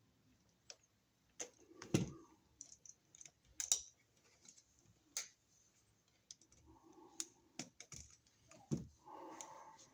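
Scattered small clicks and taps, with a few louder knocks, from hand tools, copper wire and a plastic wall receptacle being handled as the white wire is stripped and hooked onto the receptacle's silver terminal screw.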